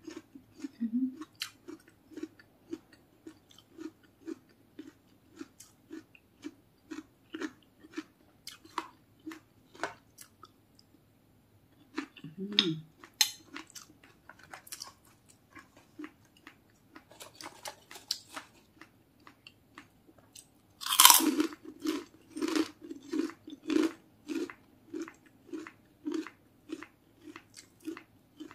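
A person chewing a mouthful of food at about two chews a second, with crisp crunching. A louder crunch comes about two-thirds of the way through.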